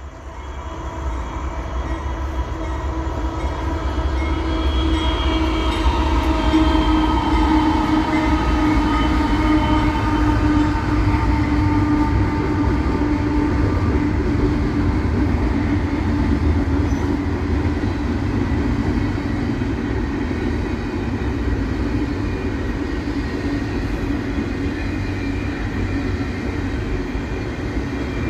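Freight train going by: a heavy, steady rumble that builds over the first few seconds, with a sustained whine that slowly drops in pitch.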